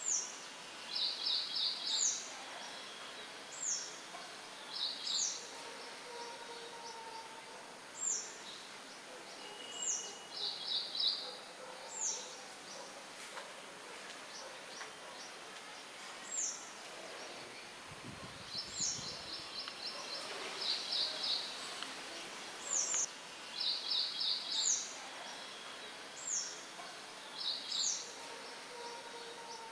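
Birds singing: short high whistled notes that slide downward, repeating every second or two, mixed with quick rattling trills, over a steady hiss of light wind. A brief low rumble comes about two-thirds of the way through.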